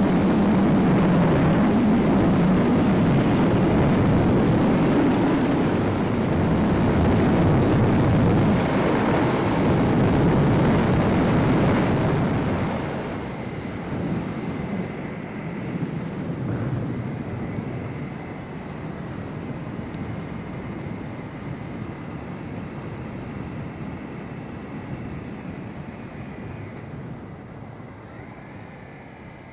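Honda CB300R's single-cylinder engine pulled hard under acceleration, its pitch rising and falling through the gears. About halfway through the engine note drops off and it carries on quieter, easing off and fading near the end.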